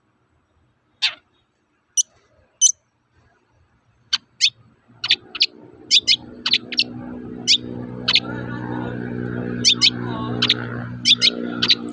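Long-tailed shrike (cendet) giving short, sharp 'toet-toet' calls, a few spaced out at first and then many in quick, irregular succession after about four seconds. A steady low hum comes in about five seconds in and grows louder beneath the calls.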